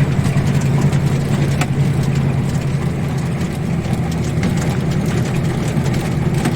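ZIL-130 truck's V8 petrol engine running steadily while the truck drives, an even low hum.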